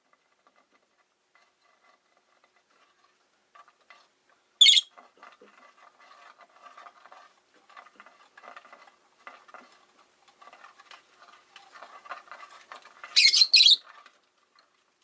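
Rosy-faced lovebirds calling: one short shrill screech about four and a half seconds in and two in quick succession near the end, with quiet, scratchy chatter in between.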